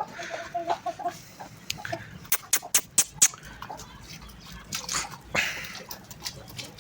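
Aseel chickens pecking at scattered grain: a quick run of sharp taps, with a few soft clucks in the first second.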